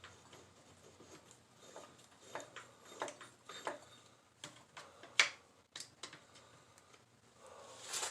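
Scattered light clicks and knocks of metal parts being handled as a shaft is worked through a motorcycle's mounting, with one sharper knock about five seconds in.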